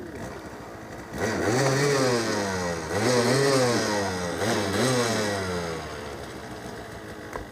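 Motorcycle engine revved up and down in three swells starting about a second in, then easing off and fading toward the end.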